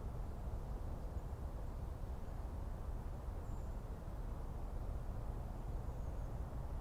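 Forest ambience: a steady low rumble, with two faint, brief high chirps about halfway through and near the end.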